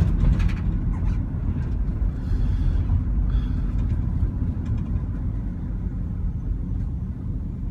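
A pickup truck driving, heard from inside the cab: a steady low engine and road rumble.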